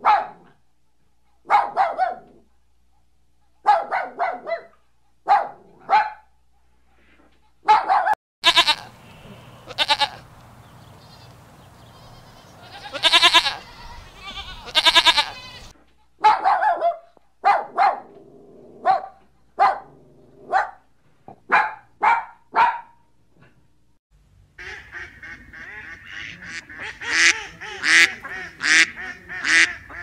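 Puppies whimpering and yelping in short cries, with longer high-pitched squealing cries in the middle. Over the last few seconds this gives way to Egyptian geese calling in quick succession.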